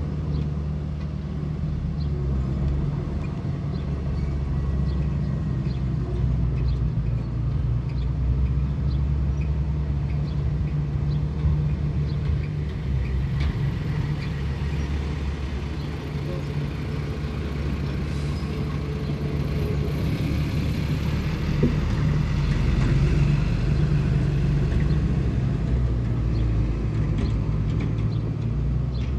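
Diesel engine of heavy earthmoving machinery running steadily as a low drone, with scattered light clicks and clanks over it.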